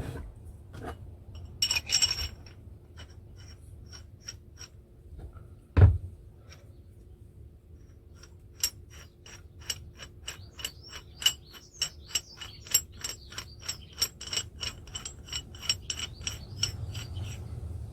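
Metal parts of an old car jack clinking as they are reassembled: scattered sharp ringing clicks, a heavier knock about six seconds in, then a steady run of ringing metal clicks, about three a second, through the second half.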